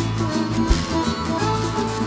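Instrumental break in a live song: guitars strumming chords over a steady bass line, with a drum beat.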